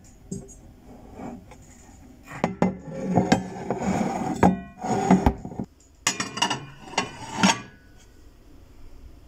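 Hard objects being handled, with irregular knocks, clatters and clinks, some briefly ringing; the busiest stretch ends about a second and a half before the end.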